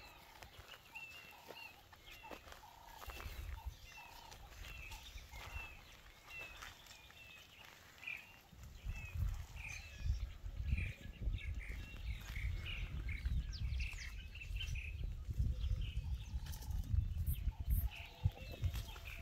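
Small birds chirping over and over in dry bush. About eight seconds in, a loud low rumbling starts and comes and goes to the end, louder than the birds.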